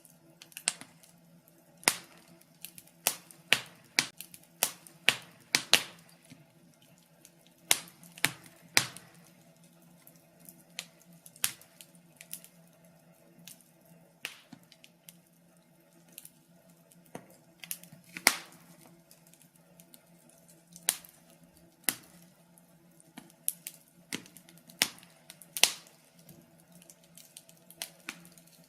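Wood fire crackling in a fireplace: irregular sharp pops and snaps from the burning logs, about one or two a second and uneven in strength, over a faint steady low hum.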